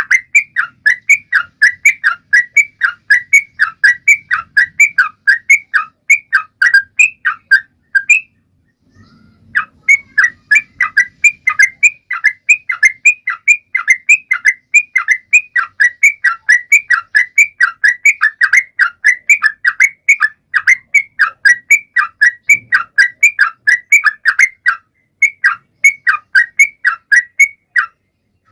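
Yellow-vented bulbul (trucukan) singing vigorously: a rapid, steady run of short chirping notes, about four or five a second. There is a pause of about a second partway through.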